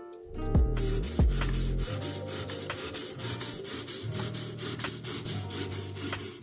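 Steel knife blade being worked against an abrasive, a rapid run of even scraping strokes that starts about two seconds in, with guitar music under it.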